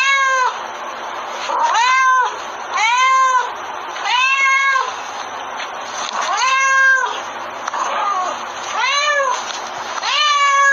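A domestic cat meowing loudly and insistently, about seven drawn-out calls, each rising and falling in pitch, at uneven gaps of one to two seconds.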